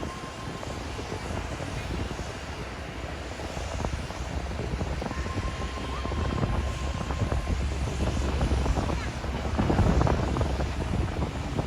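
Airliner jet engines rumbling with a rushing hiss, swelling to their loudest about ten seconds in, with a faint steady whine.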